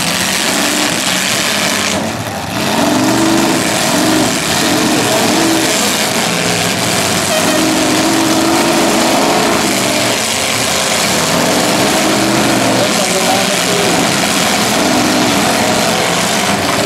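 Several demolition derby cars' engines running and revving up and down as the cars push and grind against one another, a loud, continuous din.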